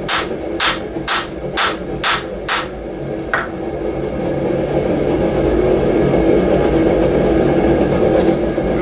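Wooden mallet striking a hot steel knife blade to straighten its warp. It gives about seven quick blows, roughly two a second, then stops after about three and a half seconds, with two faint taps near the end. A steady running hum underlies it, likely the gas forge.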